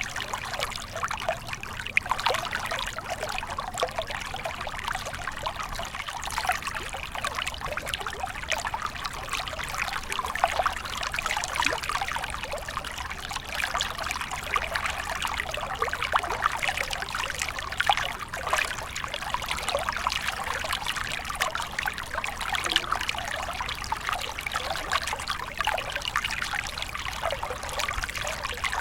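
Small stream flowing steadily, water trickling and splashing over stones with a continuous busy patter of small splashes.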